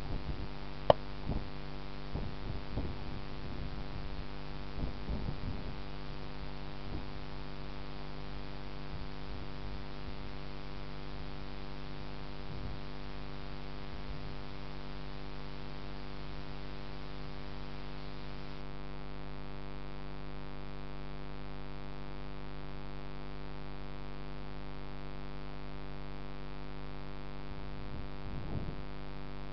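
Steady electrical hum with a stack of even overtones, with one sharp click about a second in.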